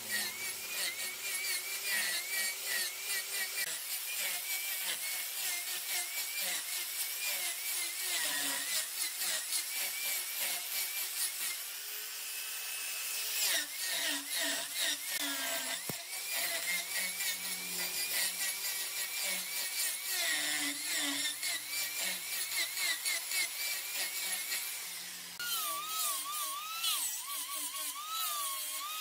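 Giant wood lathe spinning a wood blank while a cutting tool works the surface: a high-pitched, wavering whine over dense rapid chatter. Near the end, a second, lower wavering whine joins in.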